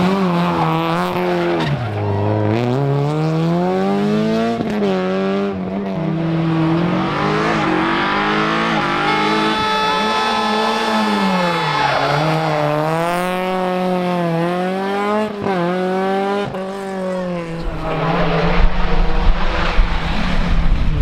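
Rally car engine revving hard, its pitch sweeping up and down again and again and held high for a couple of seconds near the middle, with tyre squeal. A few sharp cracks come through, and a louder rough rumble rises over the last few seconds.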